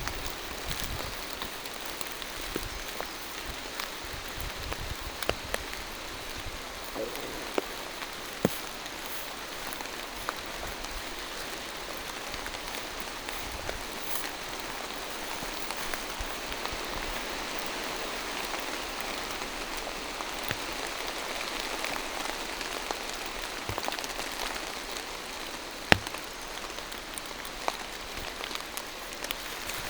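Steady rain falling through forest trees, with scattered louder individual drops striking close by; one sharp drop lands about 26 seconds in.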